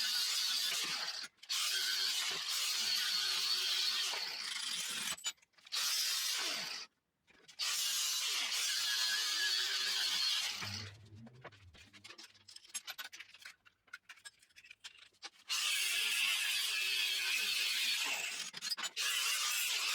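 A power tool working metal, running in several long stretches that cut off abruptly. In the middle it gives way to a quieter stretch of scattered clicks and a low hum.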